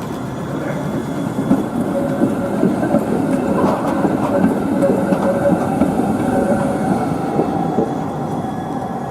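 Electric city tram running along the tracks, swelling to its loudest in the middle and easing off toward the end, with thin steady tones from the tram over the running noise.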